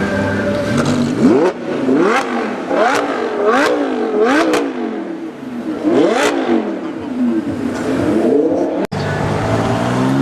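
A supercar engine revved hard in quick blips, about six of them, each rising sharply in pitch and dropping back. After an abrupt cut near the end, an engine runs steadily and begins to climb again.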